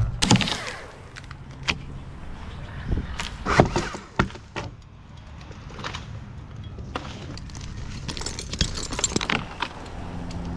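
Irregular metallic clinks and rattles with a few sharp knocks, typical of an arborist's climbing hardware and rigging being handled up in the tree.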